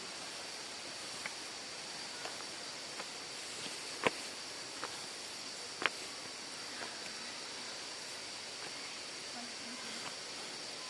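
Steady rushing noise of a waterfall, with insects droning on one high pitch over it. A few sharp clicks break through, the loudest about four seconds in and another near six seconds.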